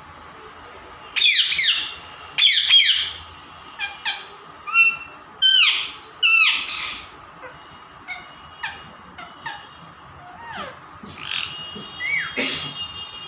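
A parrot squawking: a run of loud, harsh screeches that fall in pitch in the first half, then softer short chirps and whistles.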